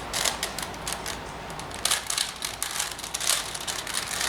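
Plastic 4x4 Rubik's Revenge cube being turned by hand, its layers clicking and clacking in quick, irregular flurries of turns while edge pieces are paired.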